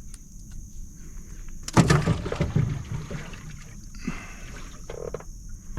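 A bass dropped into a boat's livewell: a splash and thump about two seconds in, followed by softer sloshing of water.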